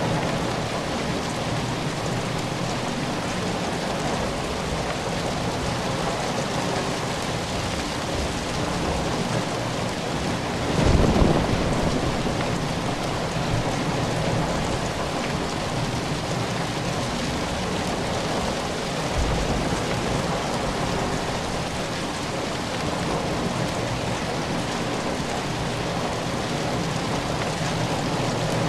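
Steady rain falling, an even hiss of drops. A short low rumble rises out of it about eleven seconds in, with a fainter one about two-thirds of the way through.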